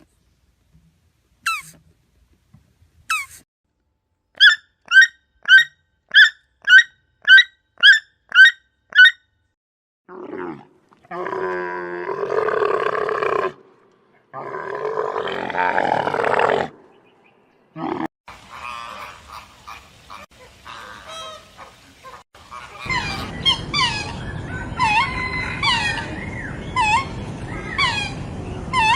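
A run of animal calls from several different animals. First come a few short high chirps, then eight quick evenly spaced high calls, then two long calls of a few seconds each. From about two-thirds of the way in, many short chirps sound together over a steady noisy background.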